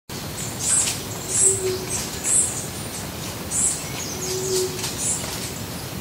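Several wild birds calling in the trees: sharp, very high-pitched calls about five times, roughly a second apart, with a low held note twice.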